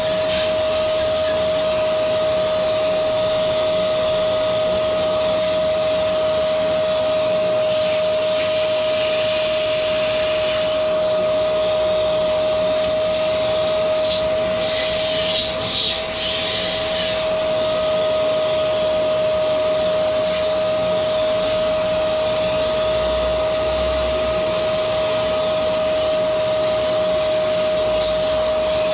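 Electric motor-driven air blower or vacuum running steadily, with a constant high whine over a rushing-air hiss; the hiss briefly grows brighter about halfway through.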